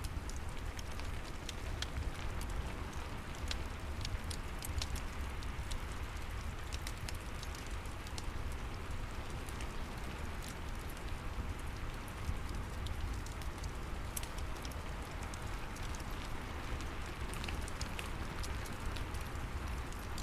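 Steady rain falling, layered with a fireplace's wood fire crackling in many small, sharp pops.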